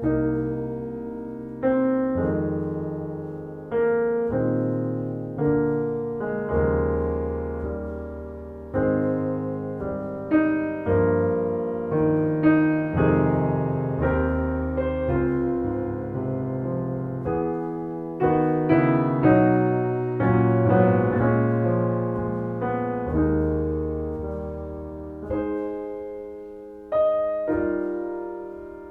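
Slow solo piano music, chords struck every second or two and left to ring and fade.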